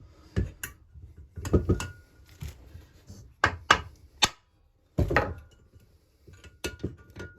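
Sharp knocks and clicks of tools and metal chainsaw parts being handled on a workbench. About a dozen sound irregularly, with three loud ones in quick succession past the middle and a heavier knock about five seconds in.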